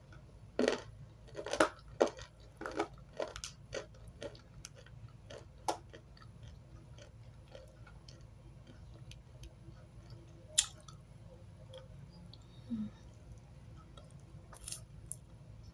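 Crisp crunching and chewing of dry edible clay chalk. A quick run of sharp crunches fills the first six seconds, then only a few scattered ones follow, the loudest about ten and a half seconds in.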